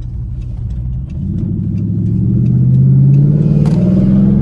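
2012 Dodge Charger SRT8's straight-piped 6.4-litre HEMI V8 accelerating hard. From about a second in, the revs climb steadily and the exhaust grows louder.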